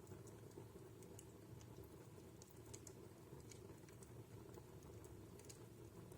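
Wood fire in a fireplace crackling faintly: scattered small sharp pops and clicks over a soft, steady low rumble of the burning logs.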